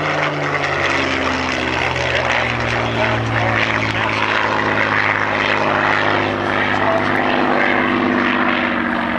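Supermarine Spitfire's Rolls-Royce Merlin V12 engine running loud and throaty as the plane flies past, its pitch falling over the first few seconds and then slowly rising again.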